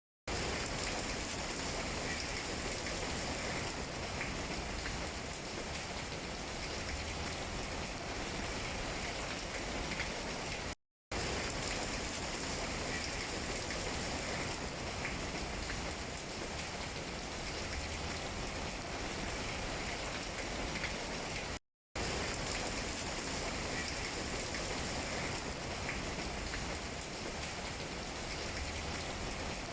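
Steady rain falling on tree leaves, an even patter of drops. It cuts out to silence for a moment twice, about 11 and 22 seconds in, where the recording loops.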